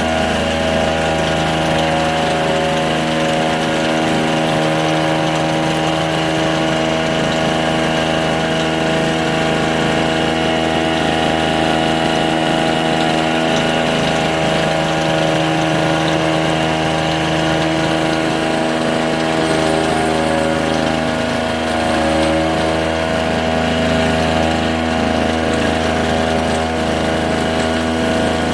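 Two-stroke engine of a Monorack monorail carrier running steadily at a constant speed.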